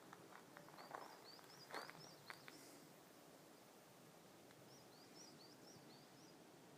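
Faint bird song: two phrases of about six short, quick up-and-down notes each, the first starting about a second in and the second near five seconds. A few soft clicks and rustles fall in the first two and a half seconds.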